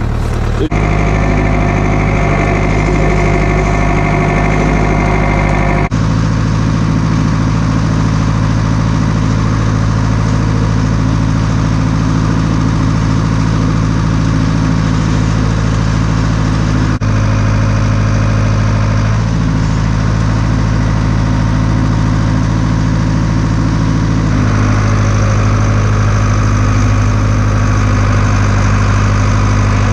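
Tractor engine running steadily while the front-end loader with a brush grapple works. The engine note shifts abruptly several times.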